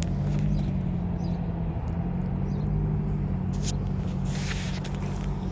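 Steady low drone of a running engine, with a sharp click about three and a half seconds in and a short rustle just after.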